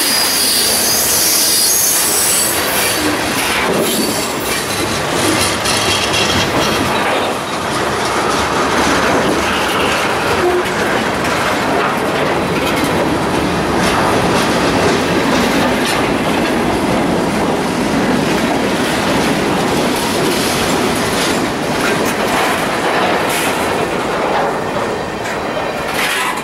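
Freight train of covered hopper cars rolling past close by on a curve: steel wheels squeal high against the rail, loudest in the first few seconds, over a steady rolling rumble. Sharp clacks of wheels over rail joints come through near the end as the last cars pass.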